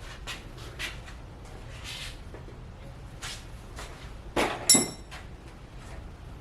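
Metal tools and parts being handled, with scattered light clicks and taps, then two sharp metal knocks about four and a half seconds in, the second ringing briefly.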